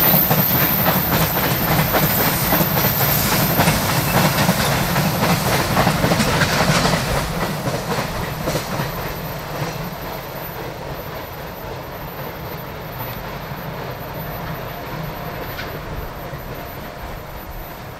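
Container wagons of a freight train clattering over the rail joints as they pass close by. About seven seconds in the tail end draws away, and the clatter fades steadily.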